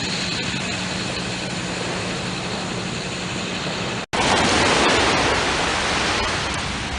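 Heavy earth-moving equipment running, a steady low engine hum under a strong, even rushing noise. The sound cuts out for an instant about four seconds in, then the rushing noise resumes.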